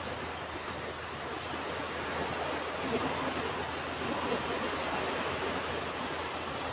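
Ocean waves washing onto a beach: a steady rush of surf that swells and eases gently.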